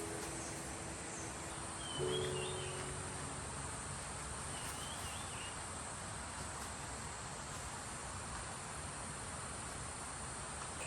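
Insects chirring steadily in a high, even drone. A bird chirps briefly twice.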